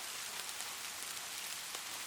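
Light rain falling steadily: an even hiss of many small drops, with faint individual drop ticks scattered through it.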